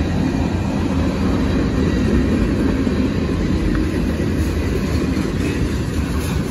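Freight train rolling past steadily: tank cars and covered hopper cars rumbling and rattling over the rails with an even, low roar.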